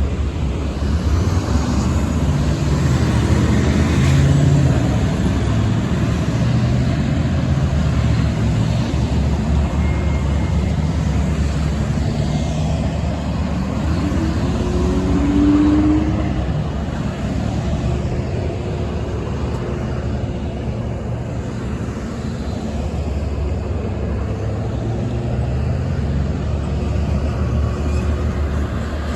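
Road traffic: vehicles passing with steady engine and tyre noise over a deep rumble. A short rising engine tone comes about halfway through.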